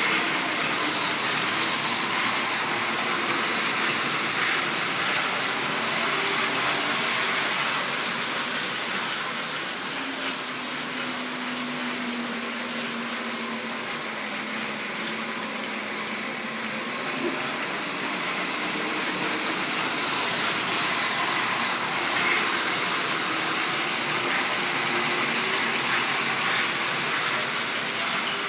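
Model railway train running steadily on the track: continuous wheel-on-rail rumble and clatter from the rolling stock, with a faint electric motor hum that shifts slightly in pitch.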